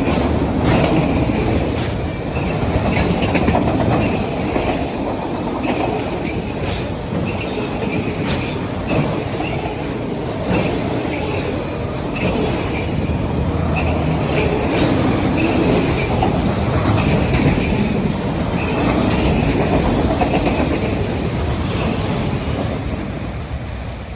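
CSX autorack freight cars rolling past, wheels clacking over the rail joints with a light squeal now and then. The sound starts to fade near the end.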